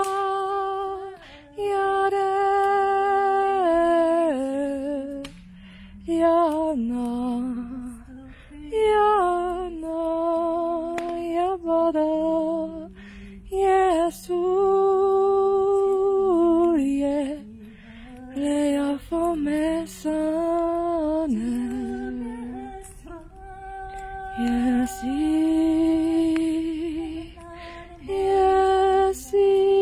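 A woman's voice singing a slow melody with long held notes, in phrases with short pauses between them, with no clear words.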